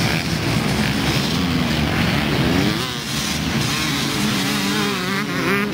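Several motocross bikes racing on the track, their engines revving up and down as the riders work the throttle, with climbing revs about three seconds in and again near the end.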